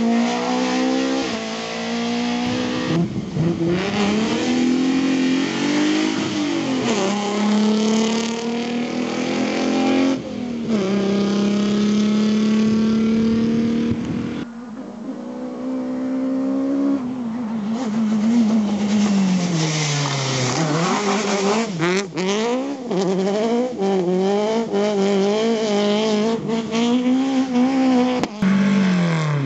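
Rally car engines at full throttle, pitch climbing through the revs and dropping sharply at each gear change, with brief lifts off the throttle. Several abrupt breaks where one car's sound gives way to another's.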